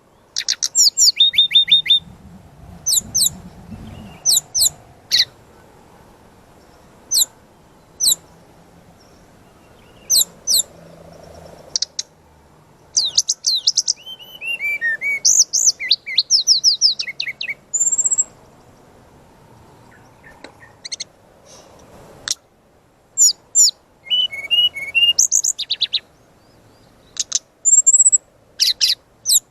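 Brown-chested jungle flycatcher (sikatan rimba dada coklat) singing in repeated bursts: rapid, sharp high notes, quick falling sweeps and short trills, separated by brief pauses.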